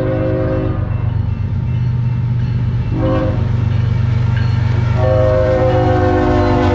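BNSF freight locomotive's multi-chime air horn sounding over the train's steady low rumble. A long blast ends within the first second, a short blast comes about three seconds in, and a long blast starts about five seconds in and holds to the end: the short-then-long close of the grade-crossing signal.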